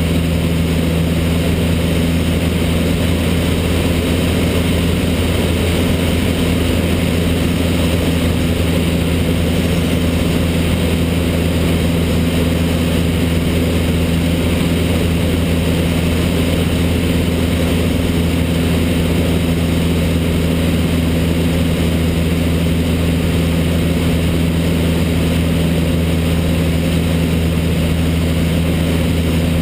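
Cessna 152's four-cylinder Lycoming O-235 engine and propeller running in a steady, unchanging drone.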